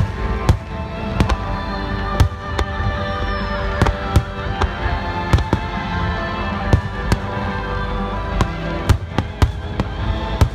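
Aerial firework shells bursting in quick succession, sharp cracks and booms coming irregularly about one or two a second, over music with sustained tones.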